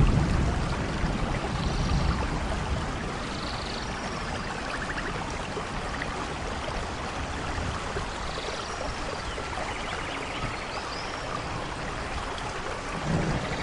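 Steady rain hiss with faint, high chirps scattered through it. A low rumble of thunder fades away in the first second or two and swells again near the end.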